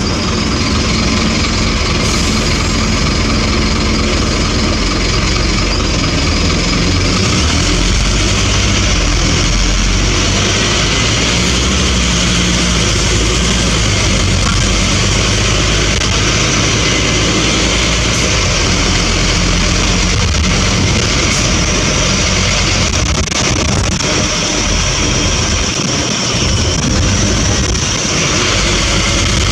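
Scania N230UB bus engine running steadily, with no break in the sound.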